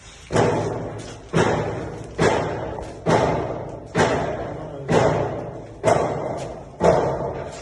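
Steady hammering: heavy blows struck about once a second, each followed by a long ringing decay.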